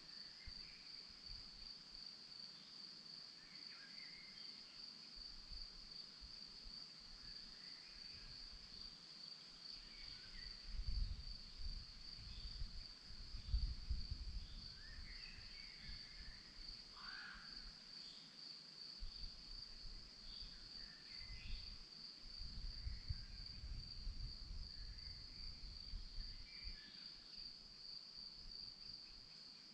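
Crickets trilling in a steady, unbroken high chorus, with scattered short bird chirps over it. A low rumble comes and goes twice, about a third of the way in and again past the middle.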